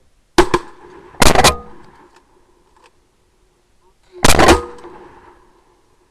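Shotgun blasts from several hunters shooting at ducks. There is one shot, then a quick pair about a second in, then another heavy blast past four seconds, each trailing off in an echo.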